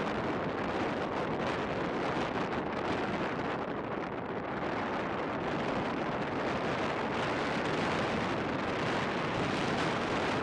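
Strong wind blowing across the microphone: a steady, rushing roar of noise with no clear tone in it.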